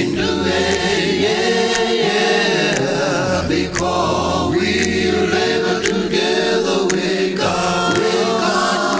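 A group of voices singing a gospel song a cappella in harmony, with held low bass notes under the melody.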